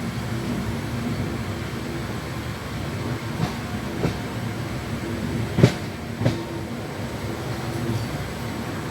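Indian Railways passenger train running, a steady rumble with a low hum, broken by four sharp clunks in two pairs in the middle, the loudest pair near the middle, as wheels pass over rail joints.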